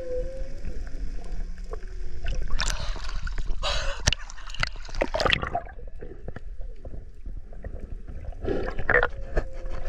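Underwater water noise: bubbling and water rushing past the microphone in irregular bursts. A humpback whale's tonal call fades out about half a second in, and a faint call tone returns near the end.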